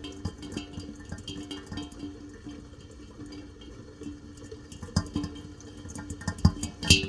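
Rain dripping in irregular drops and patter. Faint sustained musical tones fade early and return near the end.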